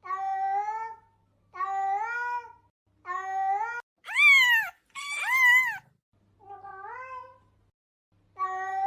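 A cat meowing over and over, about seven separate meows with short gaps. The first three are steady and alike; two louder, higher, arching meows come in the middle, then a quieter one, and another steady meow near the end.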